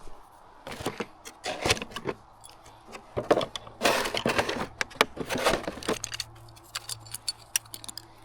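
Irregular clinks and clatters of metal hand tools being handled and set down, a series of sharp knocks coming in small clusters.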